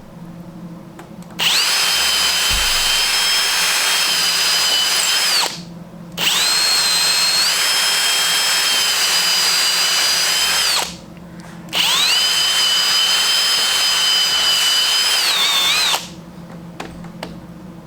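Power drill driving screws into the wooden frame: three long runs of about four seconds each, a steady high whine that rises as the drill spins up and drops as it stops.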